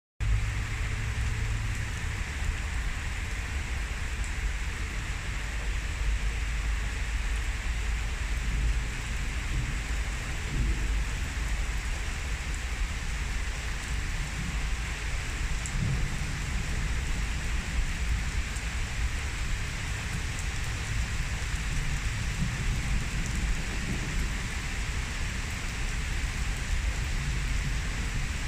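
Heavy rain pouring steadily in a thunderstorm, a dense even hiss of rain on surfaces, with low rumbling underneath that swells a few times.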